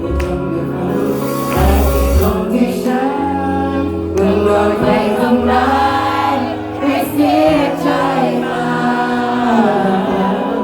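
Live band playing a song, with sung vocals over guitar and bass.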